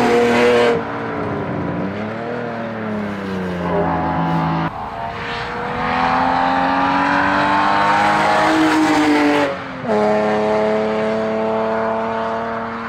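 BMW 325i (E36) straight-six at full throttle on a hillclimb run, revs climbing and dropping at each gear change, with a sharp break about ten seconds in before it holds a steady high pitch.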